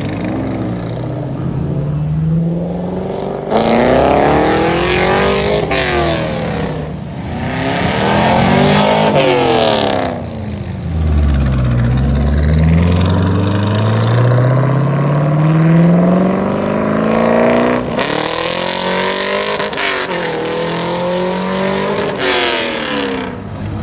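Cammed 2003 Chevrolet Corvette C5 Z06's LS6 V8, with long-tube headers and the catalytic converters and mufflers deleted, revving hard several times. Its loud exhaust note climbs and drops in pitch again and again, with one long climb in the second half.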